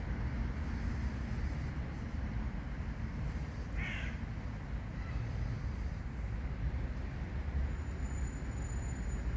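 Steady low outdoor rumble, with a single short harsh bird call, a caw, about four seconds in.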